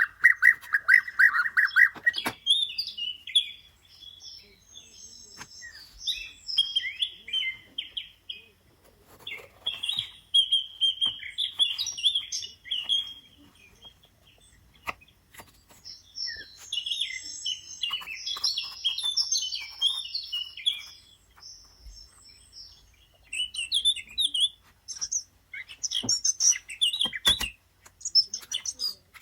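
Bird chirping and twittering in repeated bursts of quick high notes, with short pauses between bursts and scattered light clicks.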